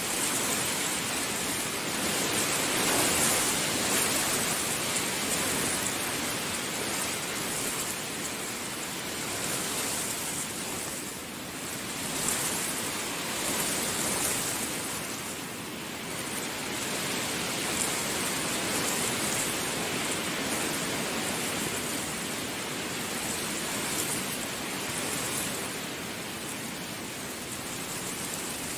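Heavy rain falling steadily, a dense hiss that swells and eases every few seconds.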